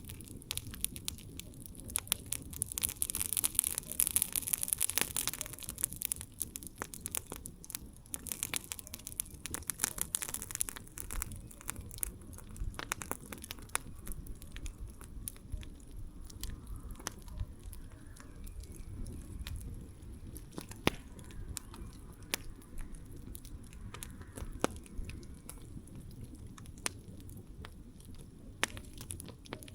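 Wood campfire crackling, with a steady run of sharp pops and snaps over a low rumble of the flames. A high hiss rises over the first few seconds and fades by about six seconds in, and one louder pop comes about two-thirds of the way through.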